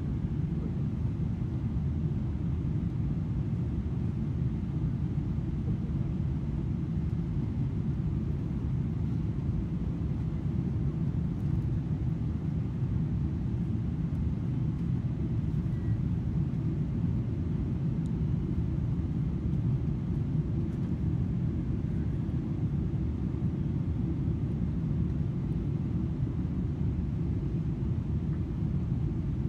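Steady low rumble of a Boeing 777-300ER's cabin in flight: engine and airflow noise heard from a window seat, even and unchanging.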